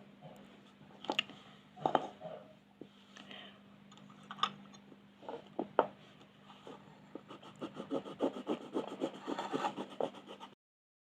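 Drawing tool colouring on paper. A few separate taps and scratches come first, then from about seven seconds in quick back-and-forth colouring strokes, several a second, over a steady low hum. The sound cuts out for a moment near the end.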